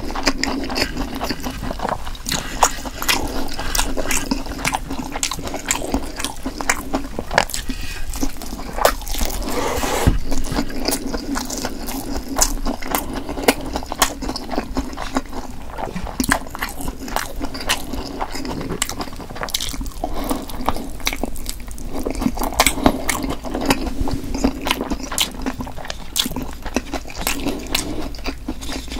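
Close-miked chewing and biting of a whole Korean blood sausage (sundae), with many wet mouth clicks and smacks.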